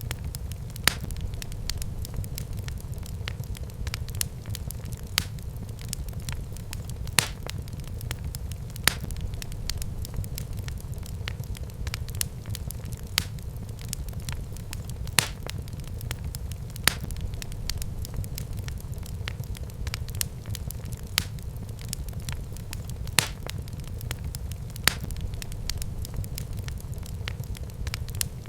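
Wood fire crackling in a fireplace: a steady low rumble of burning with sharp pops every second or two.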